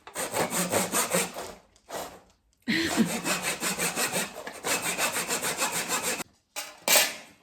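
Handsaw cutting a strip of wooden trim moulding, in quick back-and-forth strokes, about four or five a second. It goes in several runs with brief pauses, the longest run in the middle, and ends with a short final burst as the piece is cut through.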